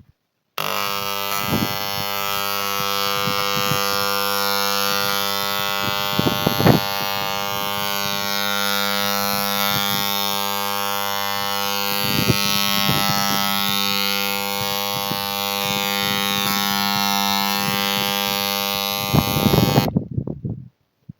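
A steady mechanical buzzing hum, like a motor running, holding one pitch for about nineteen seconds with a few short knocks over it. It starts and stops abruptly.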